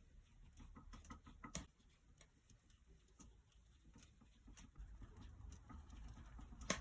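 Near silence with a few faint soft taps and pats: hands stretching pizza dough on a semolina-dusted work surface. A slightly louder tap comes near the end.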